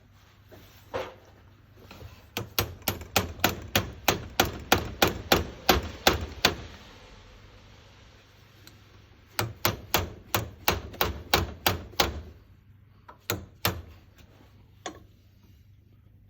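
Hammer blows, struck in quick runs of about four a second, then a few single knocks near the end, typical of knocking on a seized car air-conditioning compressor to free it.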